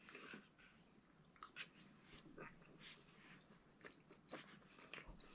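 Faint chewing of a mouthful of MRE beef in sauce, with scattered small mouth clicks.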